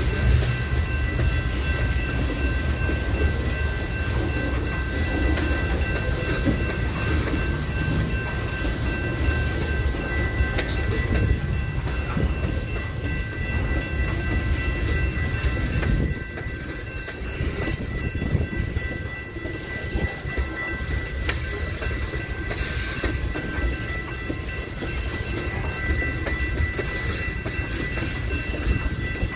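A train rolling past on the rails: a steady low rumble of wheels with scattered clicks over rail joints, and a faint steady high whine throughout. The rumble eases slightly about halfway through.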